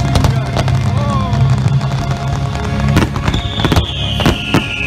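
Fireworks bursting in quick succession over the show's music, with a long whistle falling in pitch from about three seconds in.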